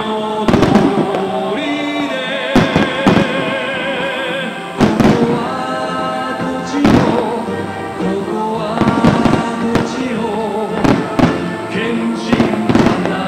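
Starmine fireworks display: aerial shells bursting in a rapid, irregular series of sharp bangs, over music with long wavering held notes.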